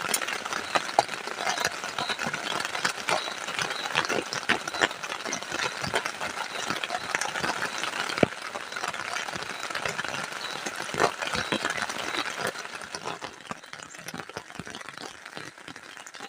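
Heavy rain pattering on a plastic tarp shelter: a dense rattle of drop impacts over a steady hiss, fading down near the end.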